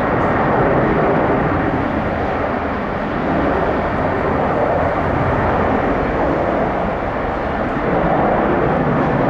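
Airbus A330's twin jet engines at takeoff thrust, a loud steady jet noise that swells slightly about a second in and again near the end.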